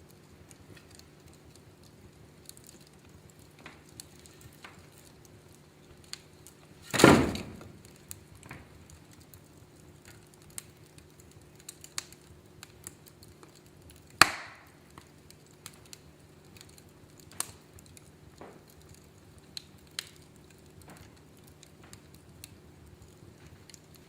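Wood fire burning in a fireplace, crackling with scattered small ticks and two loud pops about seven seconds apart.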